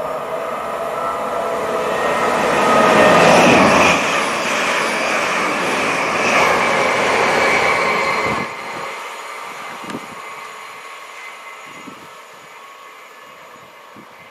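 Great Western Railway Intercity Express Train running through the station without stopping: its noise, with a steady engine note, builds to its loudest about three to four seconds in and holds until the tail clears about eight seconds in, where it drops sharply, then fades as the train runs away.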